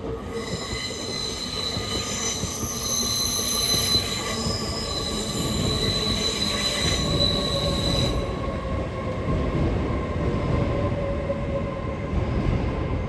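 TransPennine Express Class 802 train coming into the platform, its brakes squealing in several high steady tones that stop about eight seconds in, over the low rumble of the train.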